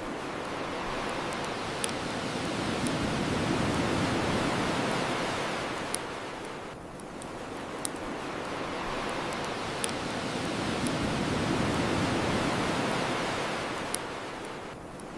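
Ocean waves washing onto a shore, the rush swelling and ebbing twice, with a wood bonfire crackling in a few single sharp pops every two to four seconds.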